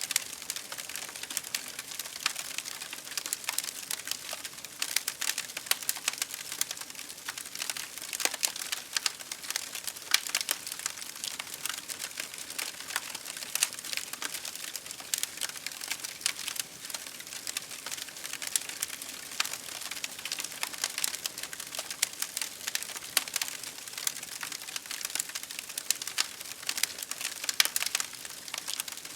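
Wood fire crackling, with dense irregular pops and snaps, over a steady hiss of rain.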